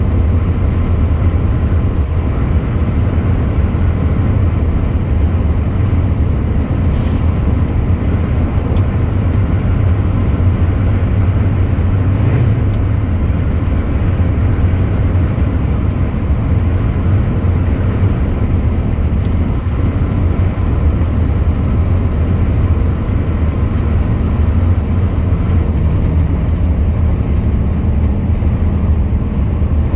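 Truck driving along at a steady speed: engine and road noise as one steady low drone.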